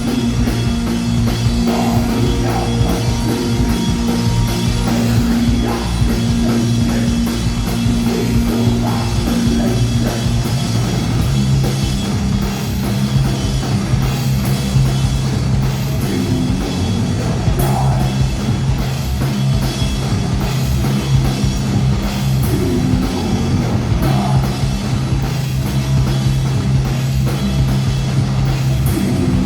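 Rock band playing live, with a drum kit and guitar over low held notes that change about eleven seconds in.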